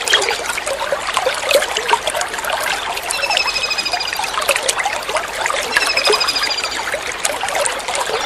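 Water trickling steadily, with a kingfisher calling twice over it. Each call is a rapid run of evenly repeated high notes lasting about a second.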